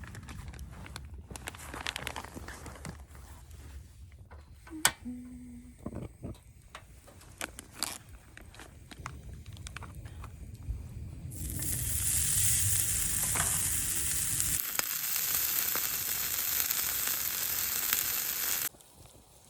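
Food sizzling loudly in a hot pan for several seconds, stopping suddenly near the end. Before it, scattered clicks and knocks.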